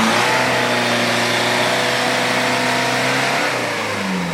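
Off-road vehicle's engine held at high, nearly steady revs under load, easing off about three and a half seconds in.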